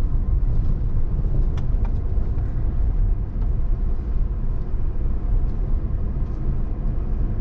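Steady low rumble of a diesel vehicle, with two faint clicks about a second and a half in.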